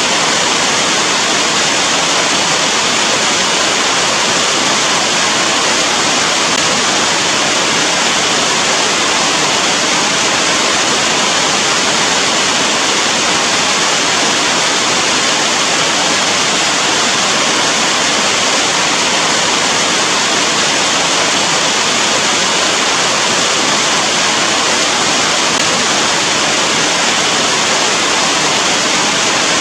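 Steady rain: a dense, even hiss that holds the same level throughout, with no single drops or other sounds standing out.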